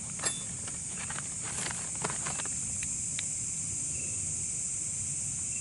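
Night insects chirring steadily in a high, even drone, with a few faint clicks and knocks scattered through it.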